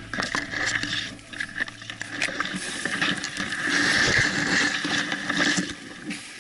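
Rustling, crackling and snapping of dry brush and leaves, a person pushing through dense undergrowth, with many sharp cracks and a louder stretch in the middle.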